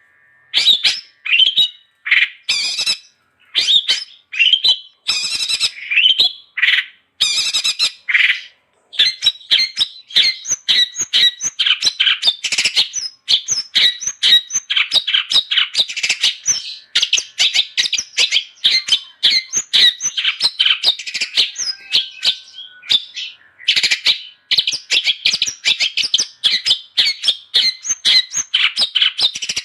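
Long-tailed shrike (cendet) singing hard and nonstop. For the first several seconds it gives short, separate phrases, then breaks into a fast, unbroken run of chattering notes with one brief pause about three-quarters of the way through.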